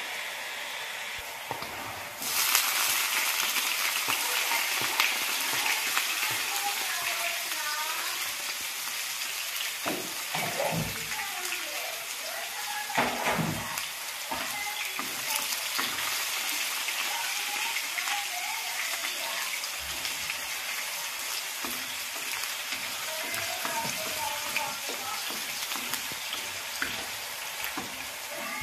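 Chopped garlic and onion sizzling in hot oil in a wok, jumping louder about two seconds in, with a wooden spatula stirring and scraping the pan.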